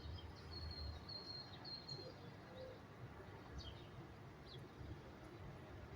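Faint birdsong: a thin, high trill in the first two seconds, then a few brief falling chirps, over a low, steady background rumble.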